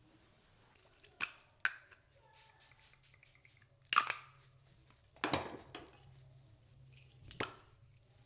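Objects being handled in a small room: five sharp clacks and clatters, the loudest about four seconds in and a longer rattling one just after.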